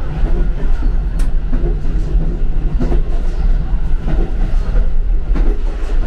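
Train running on the rails, heard from inside a carriage's toilet compartment: a loud, steady low rumble of the running gear with a few sharp knocks and rattles.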